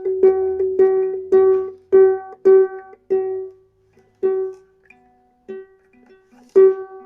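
Mahogany soprano ukulele being tuned: one string plucked over and over on the same note, about twice a second at first, then more slowly with pauses, a lower note sounding briefly in between. The strings are new and still stretching, so the pitch keeps falling back.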